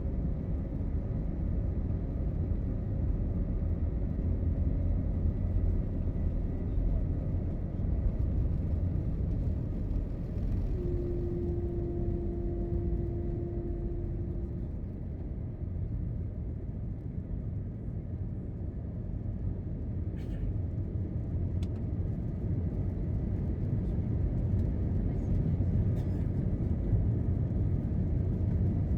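Steady low rumble of an Airbus A321 cabin, from the engines and airflow. Near the middle, a steady low tone is heard for a few seconds.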